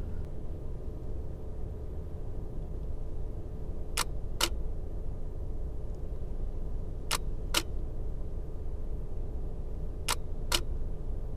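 Nikon DSLR taking three slow exposures: each is a pair of shutter clicks about half a second apart, the shutter opening and then closing on the long exposure. A steady low rumble lies underneath.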